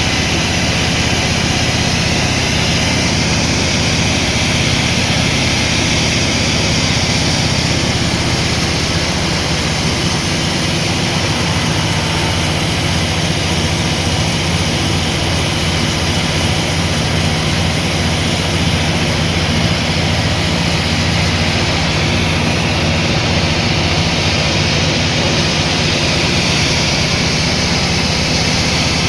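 Sawmill machinery running steadily: a constant loud mechanical drone with a low hum and a hiss over it, unchanging throughout.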